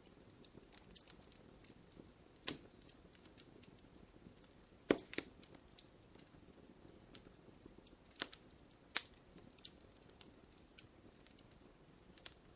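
Wood fire crackling in a fireplace: a constant scatter of small pops over a soft hiss, with a few louder snaps spread through it.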